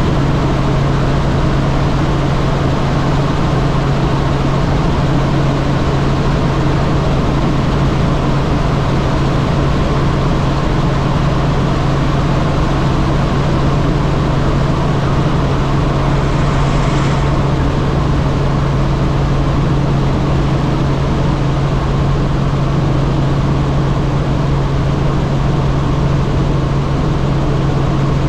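Helicopter in flight heard from inside the cabin: a loud, steady engine and rotor drone with a strong low hum that does not change.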